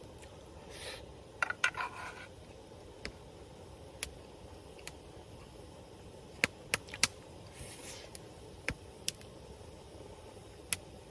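An eating utensil clicking and scraping against a cooking pot as the last of a rice dish is eaten: scattered sharp taps, with short scrapes about a second in and again about eight seconds in.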